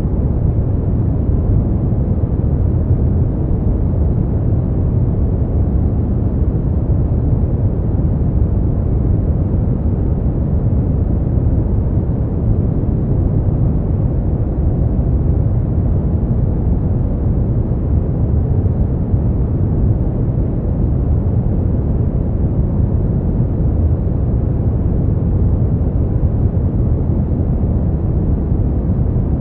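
Brown noise: a steady, deep rumbling hiss with most of its weight in the bass and little treble, unchanging throughout.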